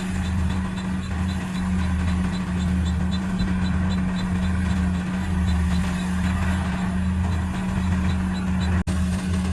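Kubota DC70 Pro combine harvester's diesel engine running steadily under load, with a pulsing low throb and a light regular ticking about four times a second. The sound drops out for an instant near the end.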